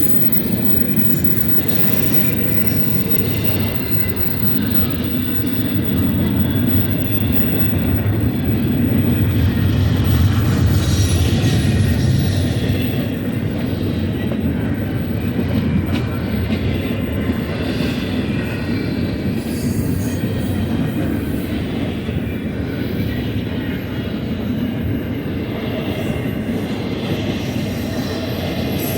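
Freight train cars of a Union Pacific intermodal train rolling past on the mainline: a steady, continuous rumble of wheels on rail that swells a little about a third of the way in, with faint high wheel squeals.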